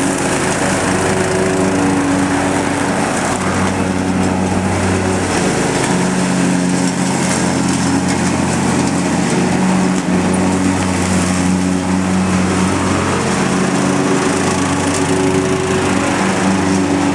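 Lawn mower engine running steadily under load, its all-weather blade mulching wet leaves, with the noise of the leaves being shredded over the engine. The engine note shifts slightly a few times.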